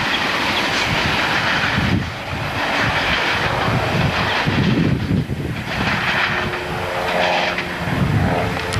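Train passing trackside: a loud, steady rush of rolling noise with a rumbling low end, and faint steady tones coming in near the end.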